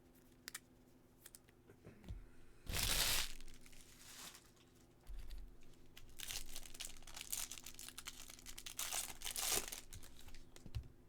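Baseball card pack wrapper torn open once, sharply, about three seconds in, followed by a longer stretch of crinkling and rustling as the wrappers and cards are handled.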